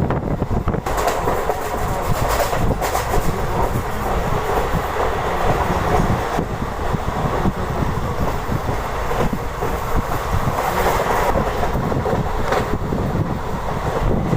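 Deccan Queen Express passenger coach running on the line: a steady rumble of wheels on rail with occasional clacks.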